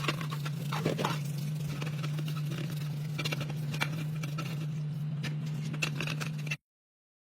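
Light knocks, clicks and scrapes of hand work on parts over a steady low hum; the sound cuts out abruptly near the end.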